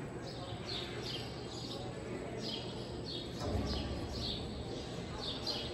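A bird chirping over and over, short falling chirps about twice a second, echoing in a large covered arena.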